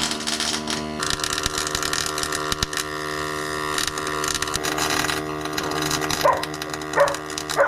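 Electric arc welder at work: a steady electrical hum with a dense crackle and sizzle of the arc, stopping abruptly once the weld bead is done. A dog barks about three times near the end.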